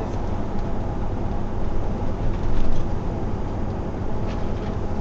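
Road and engine noise heard from inside a moving car: a steady low rumble, swelling briefly about two and a half seconds in.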